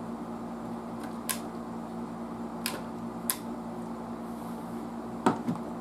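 Sharp clicks of small hand tools at a workbench, four in a few seconds, the last and loudest with a dull knock about five seconds in, over a steady low hum.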